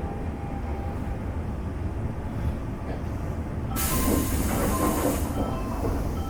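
Low rumble inside a Semboku Rapid Railway 5000 series train car at its final stop. About four seconds in, a sudden loud hiss of compressed air lasts about a second and a half.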